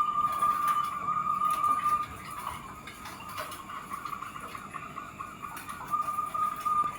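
Zebra dove (perkutut) cooing: a rapid run of short notes in the middle, set between a long steady whistling tone at the start and another near the end.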